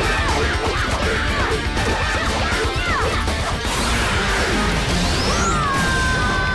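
Action-show soundtrack: background music mixed with crashing impact sound effects and short swooping zaps. About four seconds in a sound sweeps upward, and near the end a high held tone sets in.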